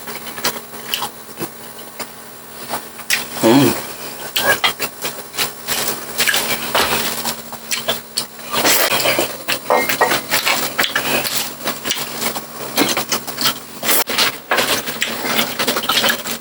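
Close-up chewing and crunching of crispy fried pork, with cutlery clinking against a plate. It is a run of sharp crackles and clicks with no steady rhythm.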